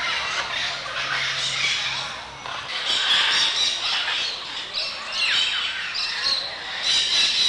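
Birds squawking, many harsh calls overlapping, loudest about three, five and seven seconds in.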